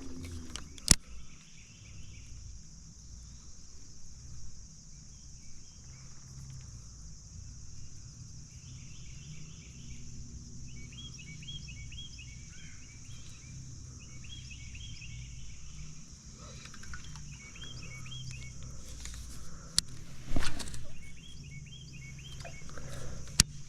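Outdoor river ambience: a steady high drone with repeated bursts of short chirping calls over a low rumble. A few sharp knocks come through, the loudest about twenty seconds in.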